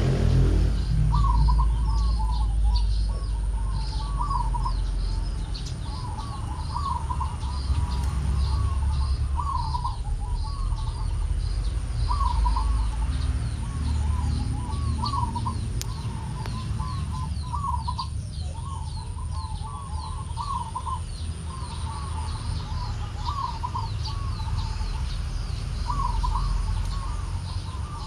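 Zebra dove (perkutut) cooing over and over in short, quick phrases of rolling notes, with small birds chirping faintly higher up over a steady low rumble.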